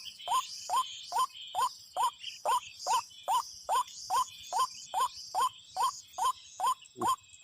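White-breasted waterhen (ruak-ruak) call: a short rising note repeated evenly, about two or three times a second.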